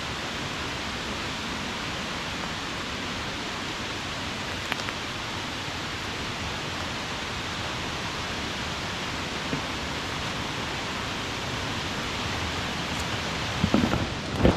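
Steady rushing of a creek waterfall, a constant even hiss of falling water. A few faint knocks cut through it, with a short cluster near the end.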